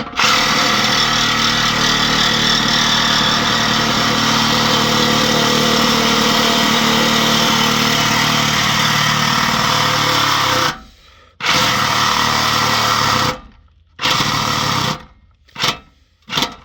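Power tool cutting through a steel exhaust pipe to remove the rear muffler, running steadily for about ten seconds, then in several short bursts with pauses between them.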